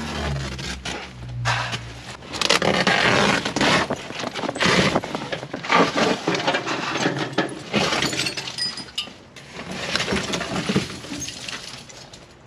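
Loose metal junk and old parts being rummaged through and pulled out of an old pickup, clattering, scraping and clinking in irregular knocks, with a low hum in the first two seconds.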